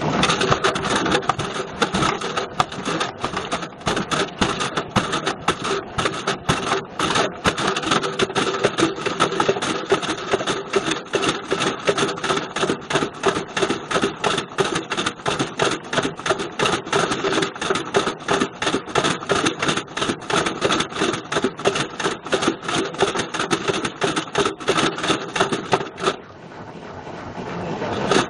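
A Bush VCR807 video recorder clattering and banging around inside a Beko washing machine's turning drum: a loud, fast run of repeated knocks. The knocking drops away for a moment near the end, then starts again as the drum turns once more.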